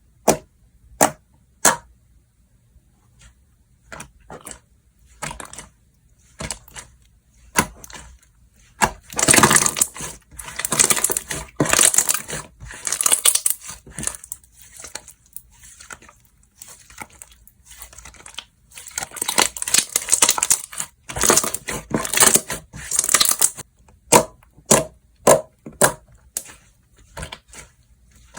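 Slime being worked by hand: sharp separate pops, then two long stretches of dense crackly crunching, then more pops.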